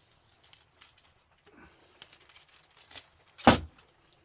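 Small clicks and rustles of scrap parts being handled and pulled apart, with one sharp knock about three and a half seconds in.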